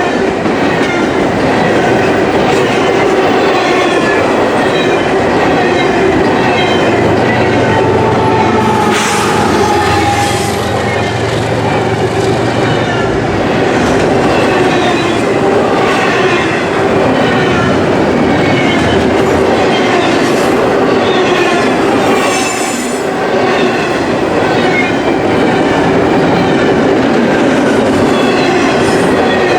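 Freight train rolling past close by, its wheels clattering steadily over the rail joints, with brief wheel squeals now and then.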